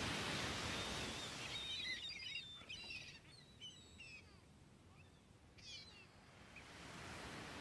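Faint outdoor ambience: a small bird chirps in a run of short, quick, high calls over a soft rushing background hiss that thins out after about a second and swells again near the end.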